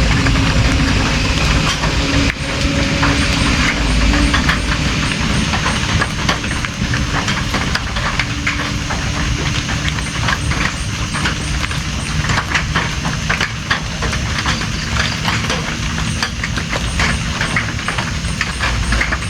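Steady heavy rain, with many separate drops tapping on a nearby surface and a low rumble underneath.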